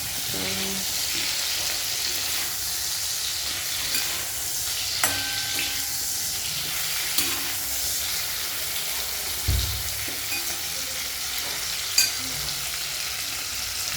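Food sizzling as it fries in a hot pan: a steady hiss, broken by a few sharp clicks.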